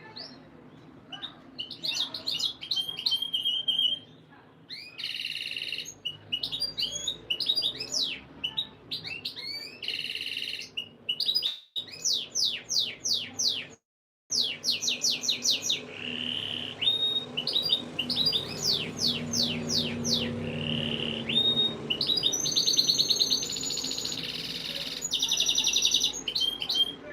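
Domestic canary singing a long, continuous song of rapid trills and repeated fast rolls, the kind of song played to bring hens into breeding condition. The song cuts out briefly twice in the middle.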